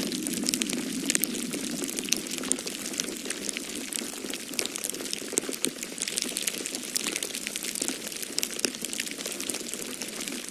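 Wood fire crackling in a fireplace, with many small irregular pops and snaps, over a steady rushing noise of wind.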